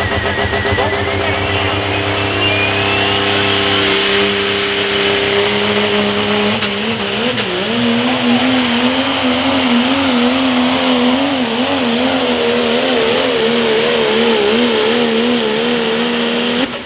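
Pro stock diesel pulling truck running at full throttle while pulling a sled, with a high whine rising over the first few seconds. From about seven seconds in the engine pitch wavers up and down, and the sound cuts off suddenly at the end.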